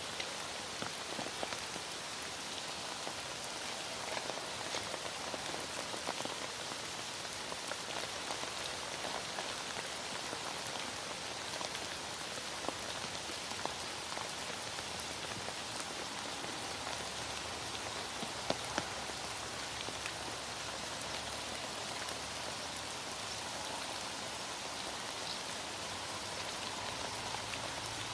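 Heavy rain falling steadily, an even hiss with scattered drops ticking on a surface and a couple of sharper drip ticks about two-thirds of the way in.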